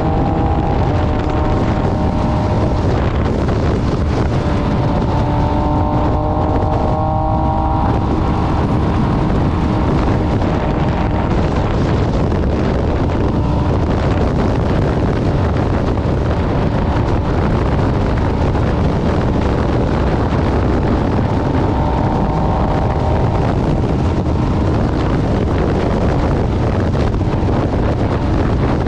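MV Agusta Brutale 800 RR three-cylinder engine running through an SC Project exhaust while riding, largely buried under wind rushing over the microphone. The engine note is clearest for the first several seconds and again briefly past the middle.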